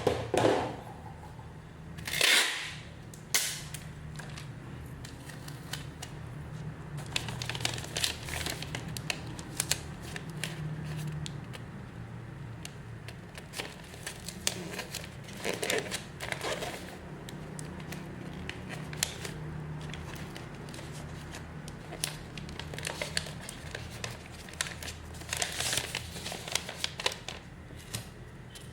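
Plastic packaging crinkling and rustling as orders are packed by hand, in repeated short bursts with scattered clicks and taps, over a steady low hum.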